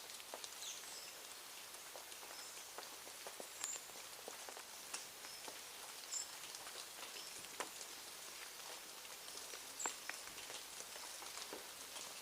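Birds at a feeding spot: irregular light taps and ticks, a few each second, with scattered very short high chirps.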